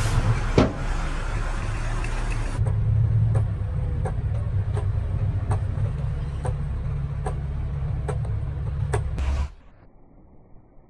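Heavy construction machine's diesel engine running steadily, with a sharp knock about half a second in and a regular clanking about every three-quarters of a second after that; it cuts off abruptly near the end, leaving only a faint hush.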